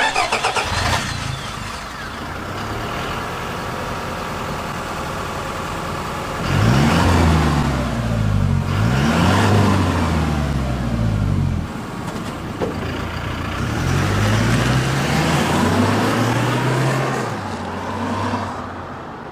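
Toyota Hilux GUN125's 2.4-litre four-cylinder turbodiesel running at medium speed through a Ganador P.B.S sports muffler. The exhaust note rises and falls in pitch, louder from about six to eleven seconds in and again from about fourteen to eighteen seconds in.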